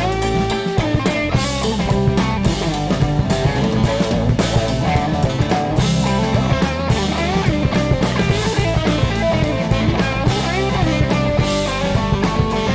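Live band playing an instrumental passage: a lead guitar line with bent notes over bass guitar and a steady drum-kit beat.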